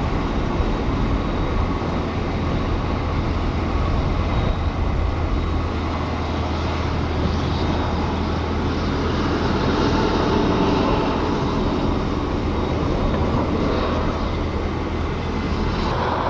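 Car engine and tyre noise heard from inside a moving car: a steady low drone under a rushing noise that swells a little midway through.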